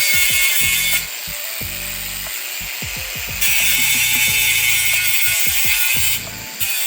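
Power tool abrading the surface of a cast-iron cauldron lid, a continuous hiss that eases off about a second in and picks up again before the midpoint. This is the stripping stage before the lid is seasoned. Background music plays underneath.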